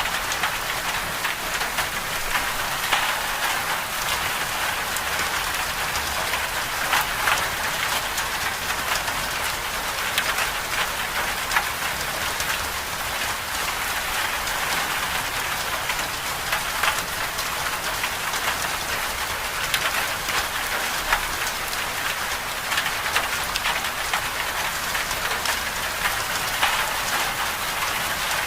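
Steady winter-storm precipitation noise: a dense, even hiss with many small ticks of drops or ice striking a surface, continuing without a break.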